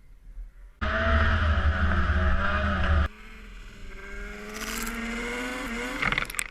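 Off-road vehicle engine running. It comes in loud about a second in and cuts off suddenly around halfway. A quieter engine follows, rising slowly in pitch, with a few sharp knocks near the end.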